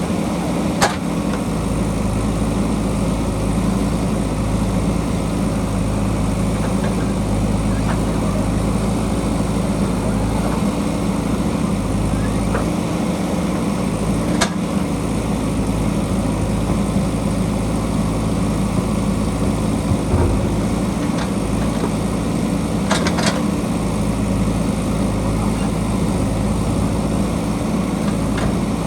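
JCB backhoe loader's diesel engine running steadily under work, with a few sharp knocks from the digging against rock.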